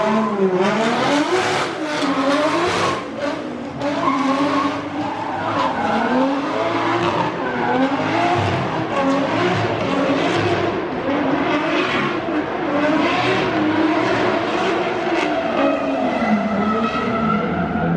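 Drift car on track, its engine revving up and down repeatedly over a steady haze of tyre noise as it slides through the corners.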